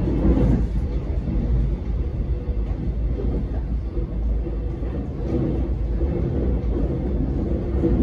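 Metro X'Trapolis electric train running, heard from on board: a steady deep rumble of wheels on track with a faint hum over it.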